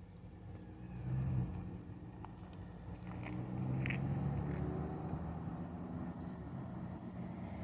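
A vehicle engine running with a low, pitched rumble that grows louder about a second in and again around three seconds, with a few faint clicks over it.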